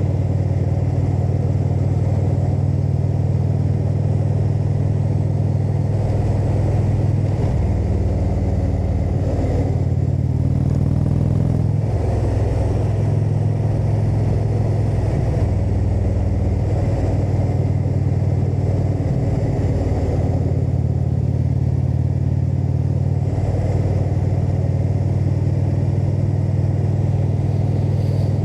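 Indian V-twin motorcycle engine running under way, with wind and road noise. The engine note holds steady and then shifts pitch several times as the bike changes speed or gear.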